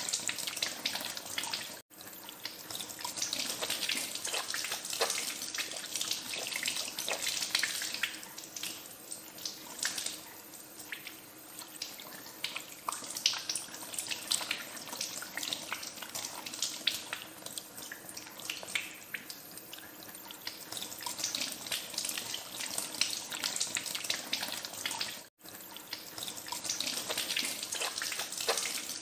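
Tap water running into a sink as hands are washed under it, with an irregular splashing that swells and eases. The flow breaks off for a split second twice, about two seconds in and near the end.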